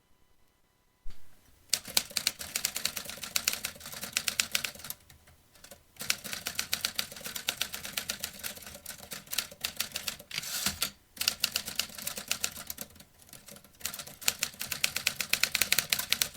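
Vintage typewriter being typed on: quick runs of sharp keystroke clacks in several spells, with short pauses between them. It starts after about a second of quiet.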